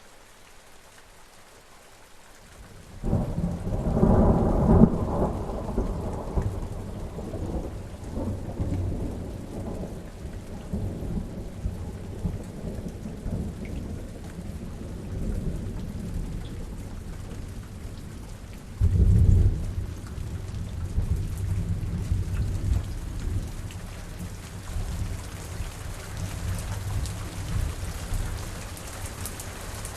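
Steady rain falling, with thunder: a loud low rumble rolls in about three seconds in and slowly fades, and a second clap of thunder comes about two-thirds of the way through.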